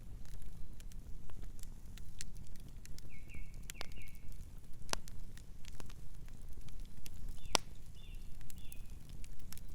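Campfire crackling: irregular sharp pops and snaps of burning wood over a low steady rumble. A bird gives short chirps twice, about three seconds in and again near the end.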